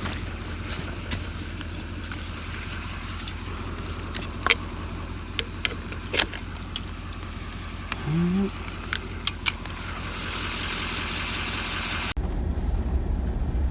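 A vehicle engine idling as a steady low hum, with scattered metallic clicks and jingles. A short rising squeak comes about eight seconds in, and near the end the engine rumble grows louder.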